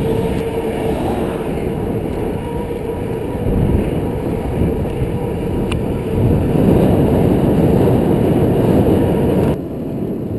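Mountain bike in motion: wind rushing over the microphone with tyre and road noise. It grows louder about six seconds in and drops suddenly near the end.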